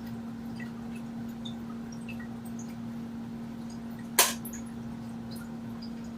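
A steady low hum with faint scattered ticks, and one sharp click about four seconds in.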